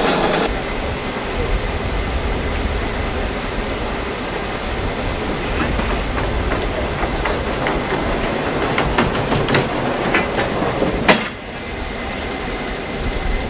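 Steady low rumble with irregular metallic clicks and knocks that come thicker after about eight seconds, then a sharp bang about eleven seconds in, after which the rumble drops.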